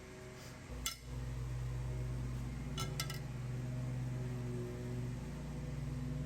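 A steady machine hum comes up about a second in, with a sharp metallic clink as it starts and two more clinks close together about two seconds later.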